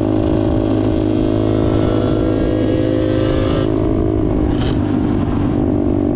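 Small off-road motorcycle engine running at a steady pace while being ridden, its pitch holding fairly level, with a brief hiss about four and a half seconds in.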